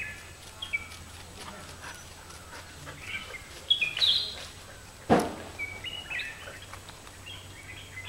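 Short chirping bird calls scattered through, with one sudden loud knock about five seconds in and a steady low hum underneath.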